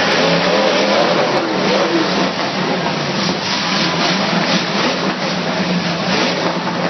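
Derby truck engines running loud and steady with some revving.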